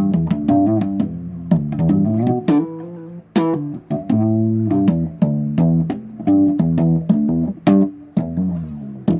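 Bass guitar playing a riff of quick plucked notes, with sharp string clicks on the attacks; it cuts off suddenly at the end.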